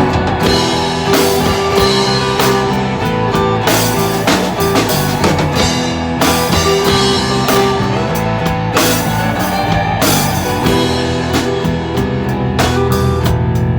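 Rock band playing an instrumental passage: drum kit, electric guitar and bass, with no singing.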